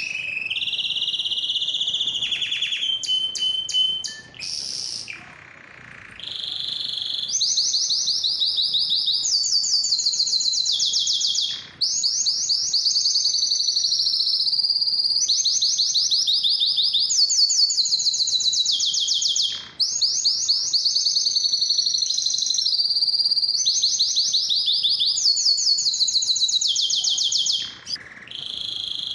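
Domestic canary singing a long song of rapid trills, each run of fast repeated notes lasting a second or two before switching to a new trill. The song stops briefly a few times, about four, twelve, twenty and twenty-eight seconds in.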